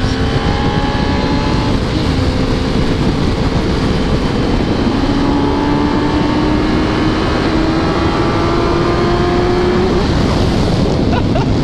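Yamaha R1 sport bike's inline-four engine running under way, its pitch climbing slowly as the bike gains speed and then dropping near the end. Heavy wind noise on the microphone.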